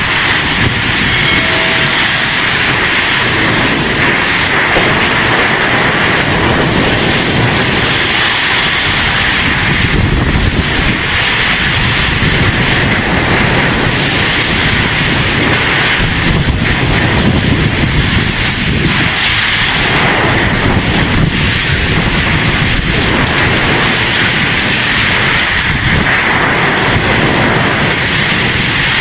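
Loud, steady rushing noise of flowing floodwater, with wind buffeting the microphone.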